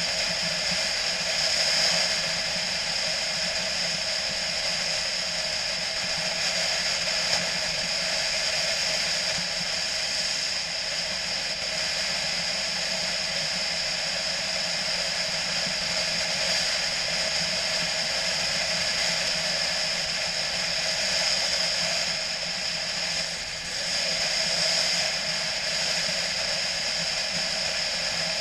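BMW motorcycle ridden at a steady pace, its engine and the rush of wind and road making one even, unbroken noise, with a brief dip about three quarters of the way through.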